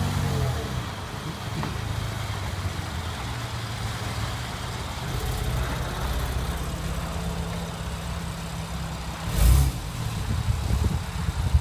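Porsche 911 Carrera 4S's flat-six engine running steadily, with a brief louder burst about nine and a half seconds in.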